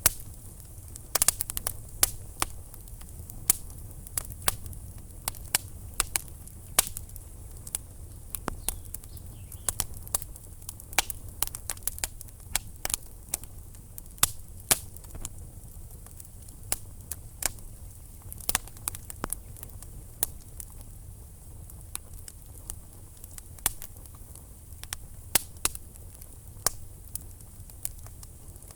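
Wood fire burning in a fireplace, logs crackling with frequent irregular sharp pops over a low steady rumble.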